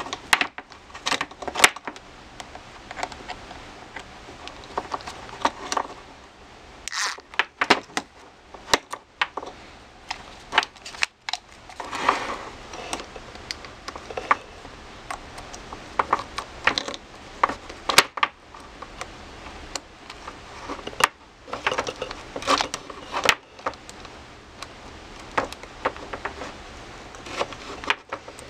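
Small hand tool and hardware clicking and scraping at irregular intervals as a nut is tightened onto a screw in an RC truck's plastic steering assembly, with a few busier scratchy stretches of turning.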